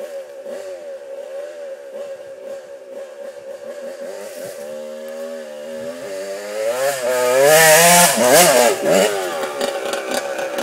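Dirt bike engine revving up and down under load. It grows louder from about six seconds in and is loudest around eight to nine seconds, then settles back.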